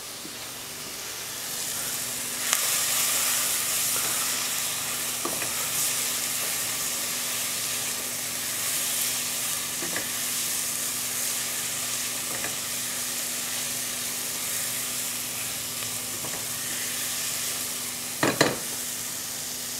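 Pieces of pork belly frying in a hot pot with added sugar, sizzling steadily while a silicone spatula stirs them. The sizzle swells about two seconds in, and the spatula knocks against the pot now and then, loudest near the end.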